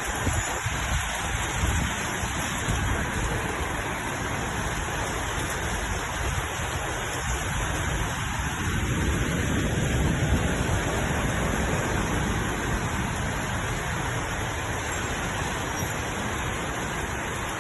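Heavy rain falling steadily, an even hiss with a low rumble underneath that swells a little around the middle.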